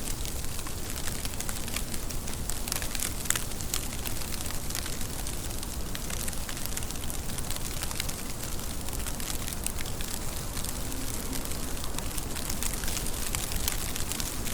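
Steady rain falling, an even hiss with many sharp, close drop ticks scattered through it.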